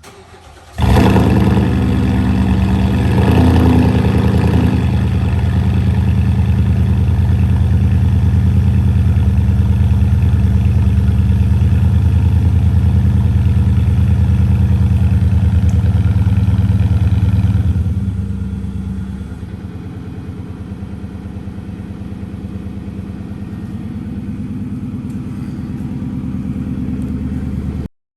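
A 2018 Nissan Titan's 5.6-litre V8, breathing through a Borla aftermarket exhaust, cold-starting: a brief crank, then it catches and runs at a loud fast idle. About 18 seconds in the fast idle drops to a lower, quieter idle as the cold-start high idle settles.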